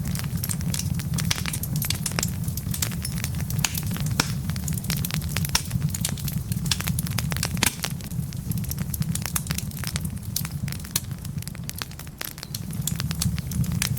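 Wood fire burning logs, crackling steadily with many sharp pops and snaps over a low, steady rumble of the flames.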